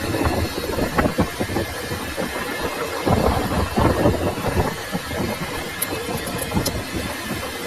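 Metalworking machine running, a steady mechanical noise broken by irregular knocks.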